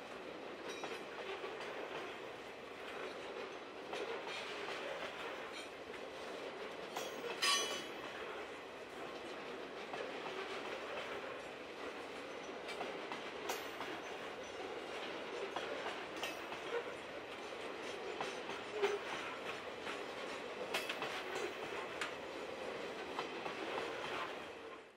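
Freight train wagons rolling along the track, wheels clattering steadily with scattered clicks over rail joints. A brief, louder metallic screech rings out about seven and a half seconds in.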